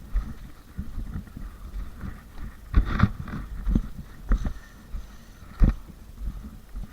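Irregular thumps and knocks, a handful of sharp ones in the middle of the stretch, over a faint rustling.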